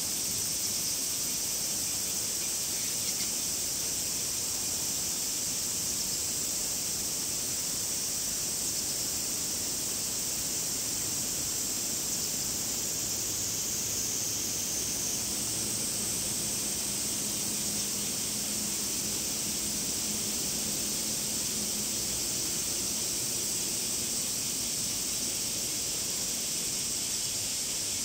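Cicadas singing in a steady, continuous high-pitched drone.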